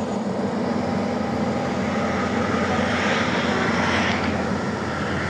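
Heavy diesel engine running steadily with a constant low drone. A rushing hiss swells about halfway through and eases off near the end.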